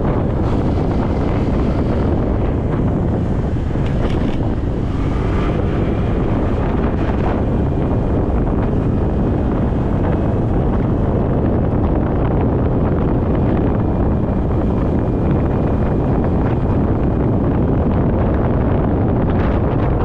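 Steady, loud wind buffeting an action camera's microphone on a moving motorcycle, drowning out most of the engine and road noise.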